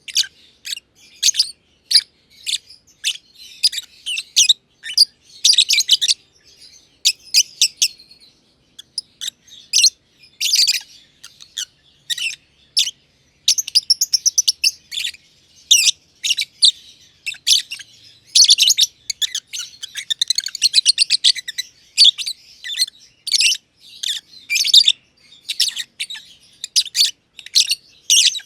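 Masked lovebirds (green and green pied Agapornis personatus) chirping: rapid runs of short, shrill, high-pitched chirps, one after another with hardly a pause.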